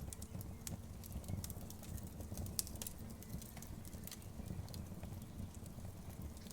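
Outdoor wood fire burning with a steady low rumble and scattered sharp crackles and pops, one louder pop a little before the middle.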